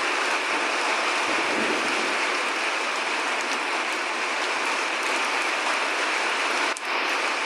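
Steady rain falling, an even, unbroken hiss of many drops, with a momentary dip about seven seconds in.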